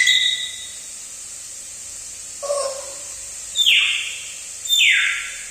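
Pet parrot calling: a short lower call about two and a half seconds in, then two harsh squawks that each fall in pitch, about a second apart.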